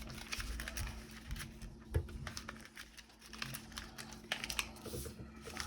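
A sheet of paper being folded and creased by hand, a corner folded down to the center crease, with soft crinkling and scattered small rustles and ticks. There is one sharper tap about two seconds in.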